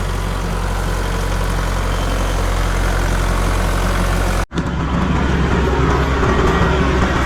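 A heavy engine running steadily. About four and a half seconds in it cuts out for a moment, then carries on a little louder.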